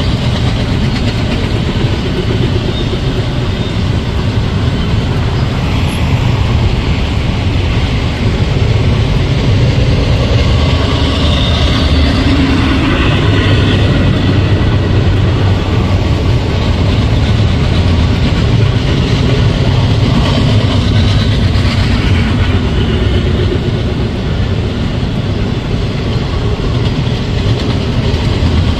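Double-stack intermodal freight train's container well cars rolling past, a loud, steady rumble of steel wheels on the rails.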